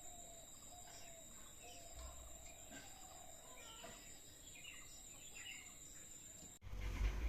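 Birds calling with short falling notes and scattered higher chirps over a steady high-pitched insect trill. Near the end the sound cuts abruptly to a louder low rumbling noise.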